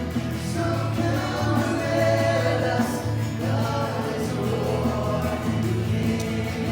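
Church worship song: a group of voices singing together over instrumental accompaniment with a steady bass.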